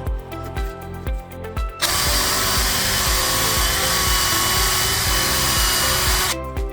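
A power tool runs steadily for about four and a half seconds, starting about two seconds in and stopping shortly before the end, with a constant whine over a loud hiss. Background music with a steady beat plays throughout.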